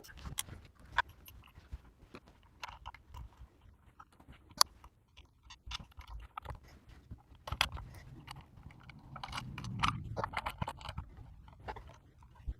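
Hand handling of a router and its plexiglass mounting plate: irregular small clicks, taps and scrapes as the parts are turned and fitted together, with a sharper click about four and a half seconds in.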